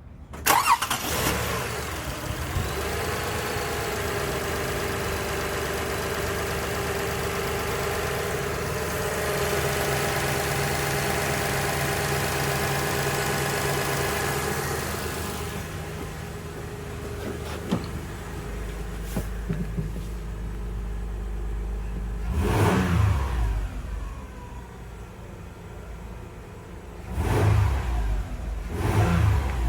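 2005 Toyota Kluger's engine starting, then running at a fast idle that settles to a lower idle about halfway through. It is revved twice near the end.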